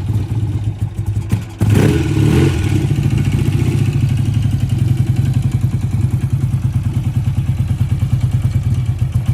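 1968 BSA A65 Lightning's 650 cc parallel-twin engine running after a cold start: a quick throttle blip about a second and a half in, then it settles back to a steady, pulsing idle.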